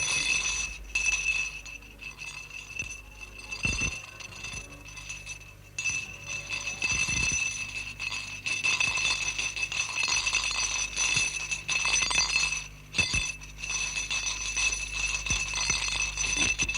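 Continuous jingling and tinkling of small chimes, with a steady ringing tone that drops out briefly twice, over a low steady hum.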